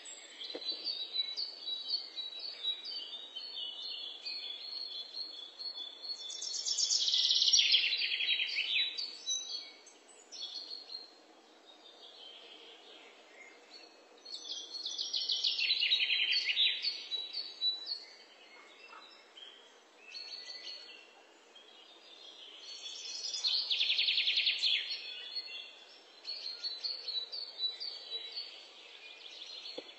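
Songbirds singing: a loud, rapid trill lasting two to three seconds that comes back about every eight seconds, with thinner high chirps in between.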